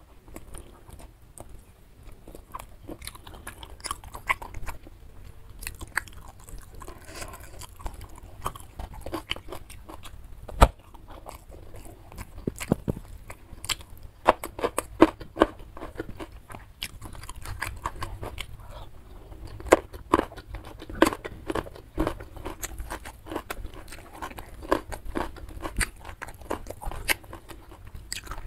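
A person chewing and biting mouthfuls of nasi padang (rice with rendang, omelette, salted fish and vegetables) eaten by hand, close to the microphone: a steady run of irregular wet clicks and smacks, with one sharper click about ten seconds in.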